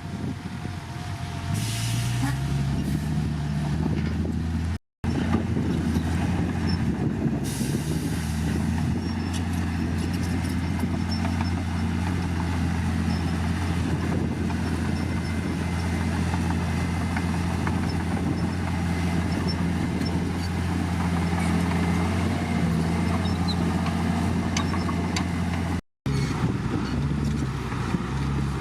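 Heavy diesel engine of earthmoving machinery running steadily under load. Its pitch rises about two seconds in, and the sound drops out briefly twice.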